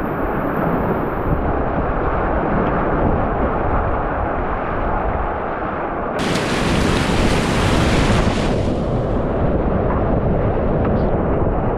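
River whitewater rushing, with a heavy rumble of water and wind buffeting the microphone. About six seconds in, a louder hissing splash lasts about two seconds.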